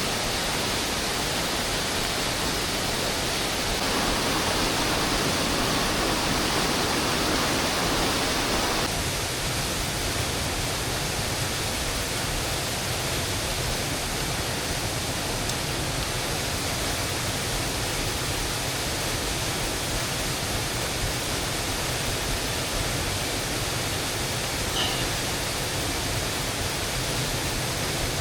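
Steady rushing hiss of water, such as rain or a running stream. It swells for a few seconds near the start, then settles, with one faint tick near the end.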